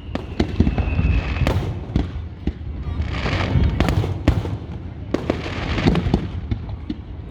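Aerial fireworks going off in rapid succession: many sharp bangs, with a stretch of crackling about three seconds in and a brief high whistle near the start.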